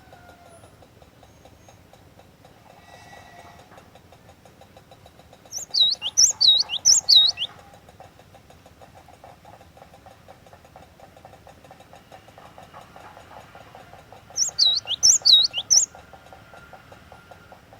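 Cinereous tit (gelatik batu) singing: two loud phrases of rapid, sharp, high whistled notes, each about two seconds long and some eight seconds apart, over a faint steady background hum.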